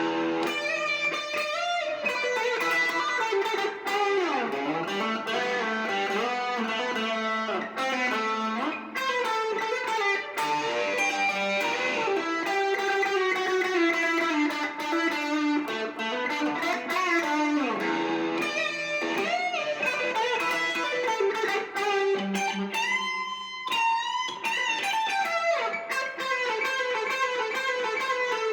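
Squier Classic Vibe '70s Stratocaster electric guitar played through a Marshall MG30DFX amplifier: a rock lead jam of quick note runs and bent, held notes that starts suddenly.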